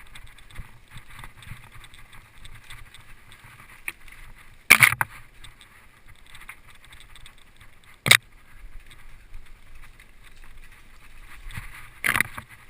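Three sharp knocks, each a few seconds apart, the last a quick double, over a low steady rumble.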